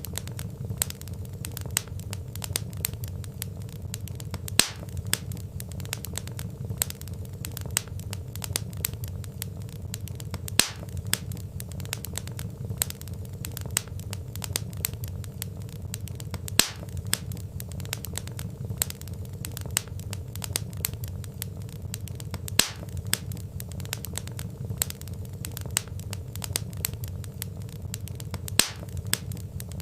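Logs burning in a fireplace, crackling steadily: a dense run of small snaps and pops over a low rumble of the flames, with a louder pop about every six seconds.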